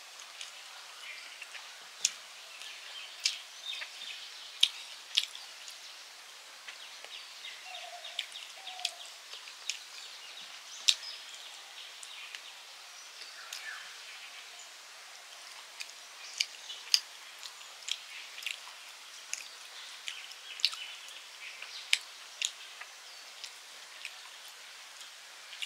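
Close-up eating sounds of a person chewing rice and fish eaten by hand: irregular sharp mouth clicks and smacks, a few every second, over a faint steady background hiss.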